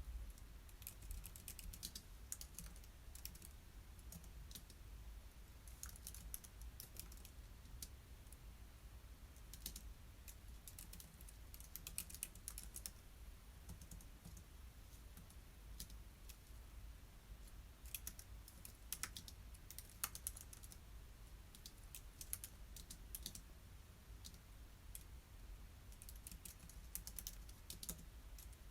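Typing on a computer keyboard: quick runs of soft key clicks with short pauses between them, over a faint low hum.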